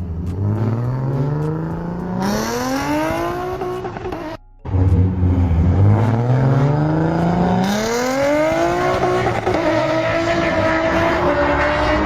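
A Nissan Z's V6 engine accelerating hard during a roll race, its pitch climbing steadily as it pulls. There is a brief cut about four and a half seconds in, then a second climb that levels off at high revs near the end.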